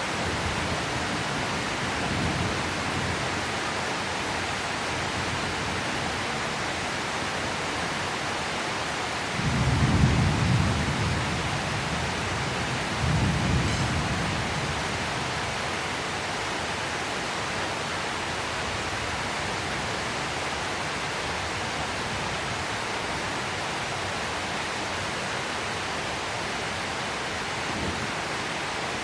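Steady rain hiss with rolling thunder: a low rumble swells about ten seconds in, another about thirteen seconds in, and fainter rumbles come near the start and near the end.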